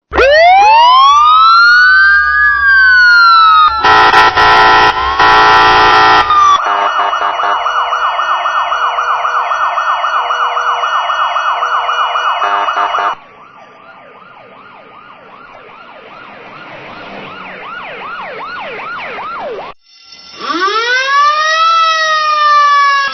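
A run of emergency-vehicle siren recordings cut one after another. An electronic wail rises and falls, a harsh blare lasts about three seconds, and a fast yelp warbles about three times a second. A quieter yelp then slowly grows louder, and near the end a wail rises and slowly falls.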